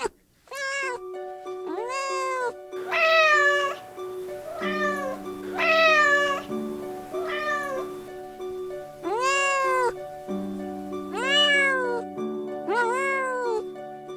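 Domestic cat meowing again and again, about nine separate meows that rise and fall in pitch, over steady background music.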